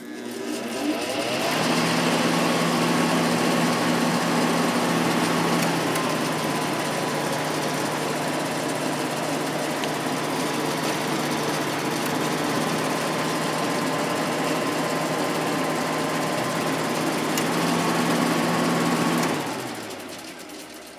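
Sharp 10,500 BTU window air conditioner's fan motor starting up, running steadily with a hum and a loud whirring rattle, then cutting off near the end and winding down. The freshly oiled inside bearing is quieter; the noise comes from the outside bearing, which is making a lot of noise, and from junk in the unit rubbing against the fan.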